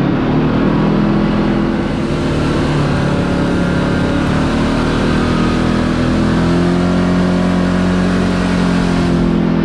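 Kawasaki KRX 4 side-by-side's parallel-twin engine running under way at a steady cruise, its pitch drifting slightly, with a continuous hiss of tyre and wind noise.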